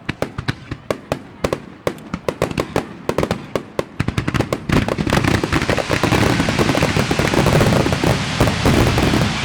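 Fireworks display: a quick run of sharp bangs, several a second, which about four seconds in thickens into a dense, continuous barrage of overlapping pops that grows louder.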